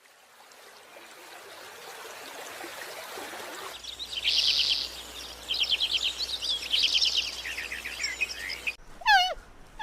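An outdoor hiss swells for the first few seconds, then a bird chirps in quick high trills. Near the end a different animal gives a short call that drops in pitch.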